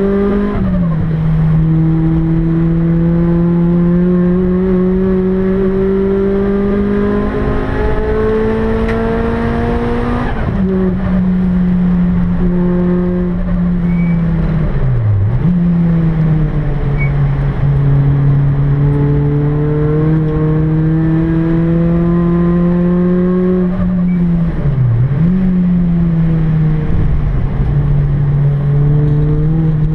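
Rotrex C30-supercharged Toyota Celica's 2ZZ-GE four-cylinder engine under hard acceleration, heard from inside the cabin. Its pitch climbs slowly through long pulls and drops sharply several times between them.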